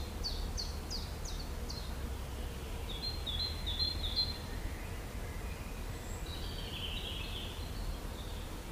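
Birds calling over a steady low rumble: a run of quick falling chirps at the start, a short string of four notes about three seconds in, then a chattering phrase near the end.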